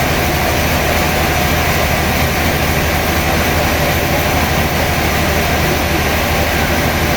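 Sawmill machinery running: a loud, steady mechanical drone with a low hum underneath, unbroken throughout.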